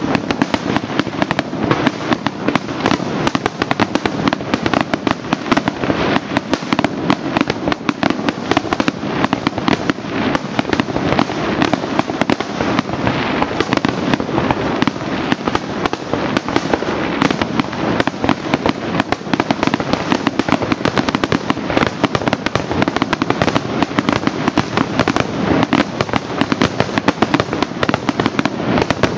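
Fireworks display: a dense, unbroken barrage of bangs and crackling in rapid succession, loud throughout with no pause.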